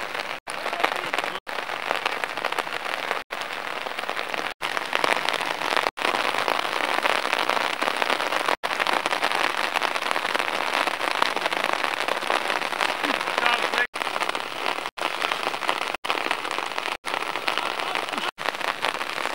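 Heavy rain falling on the pitch as a dense, steady hiss, broken by brief dropouts to silence at every cut.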